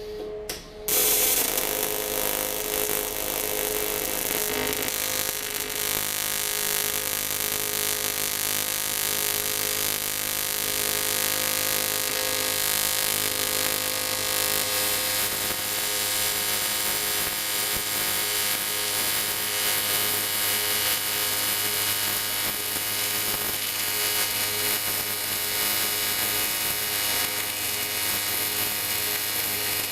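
TIG welding arc on cast aluminium, striking about a second in and then running steadily with an even electric buzz and hiss as the crack in the alloy plate is melted together and filler rod is added. The buzz is typical of the AC arc used for TIG welding aluminium.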